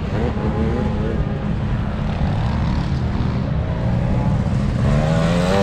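Motocross bike engines revving, their pitch rising and falling as the bikes work through the course.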